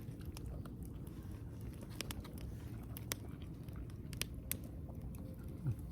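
A man eating macaroni salad: soft chewing with scattered small clicks. A short, falling 'mm' of approval comes near the end.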